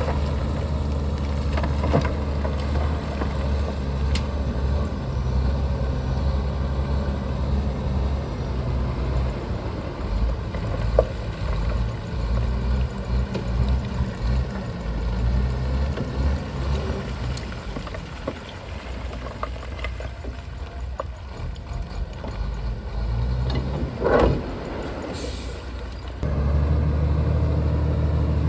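Shantui bulldozer's diesel engine running, with a few sharp clanks. It eases off in the second half and then picks up sharply near the end.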